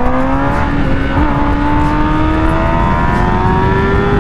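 Kawasaki Ninja ZX-10R's inline-four engine under acceleration while riding, its pitch climbing steadily with a brief dip about a second in, as at a gear change. Wind rumble on the microphone underneath.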